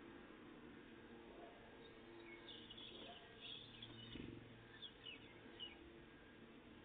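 Faint songbird calls: a scatter of short, high notes starting about two seconds in and lasting some three seconds. A soft low thump comes about four seconds in.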